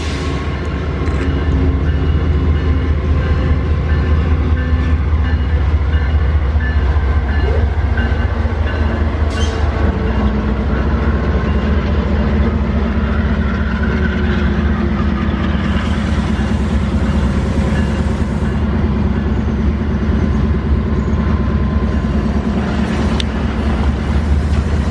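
Heavy diesel-electric locomotive engines running hard under load, a loud, steady deep rumble, with train wheels on the rails.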